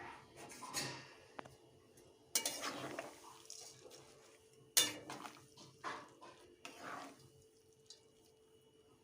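Kitchen utensils clinking and scraping against pots and dishes, with two sharper clanks about two and a half and five seconds in.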